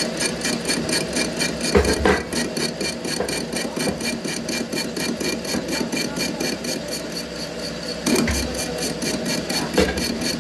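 Factory machinery running steadily, with a fast even pulsing about four times a second and a few knocks, two near the start and two near the end.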